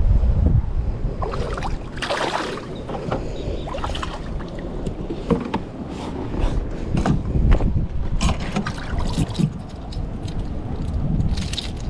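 Kayak on open water with wind rumbling on the microphone, water swishing and scattered small knocks and taps against the hull.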